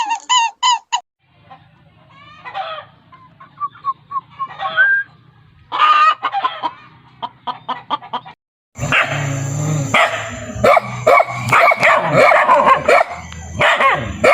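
Chickens clucking and squawking: a quick run of high calls at the start, scattered calls over a low hum in the middle, then a loud, dense stretch of overlapping squawks from about nine seconds in.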